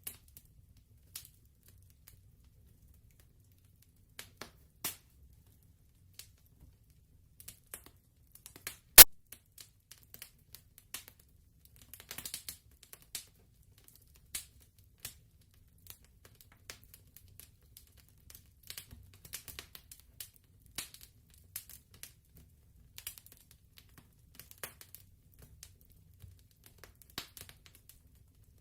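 Wood fire crackling: scattered irregular pops and snaps over a faint low rumble, with one much louder pop about nine seconds in.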